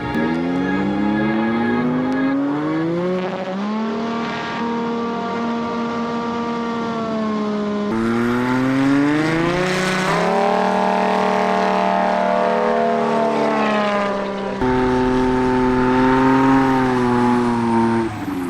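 Turbocharged light STOL aircraft's piston engine and propeller running hard, its pitch rising steeply as power comes up, holding, then sinking. This happens several times, with abrupt jumps in the sound at about eight seconds and again at about fifteen seconds.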